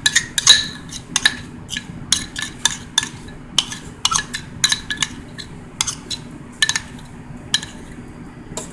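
A utensil clinking and scraping against a mixing bowl while a custard of milk powder, egg and hot sugar water is stirred, with irregular sharp clicks a few times a second.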